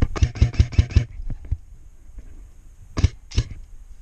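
Airsoft gun firing: a quick burst of about seven sharp shots in the first second, then two single shots about three seconds in.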